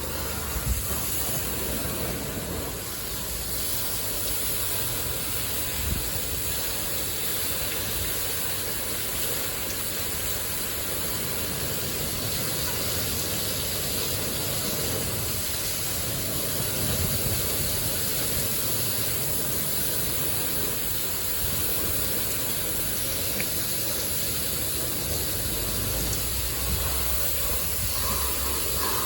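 LaserWash 360 touchless car wash spraying high-pressure water against the car: a steady rushing hiss that starts abruptly.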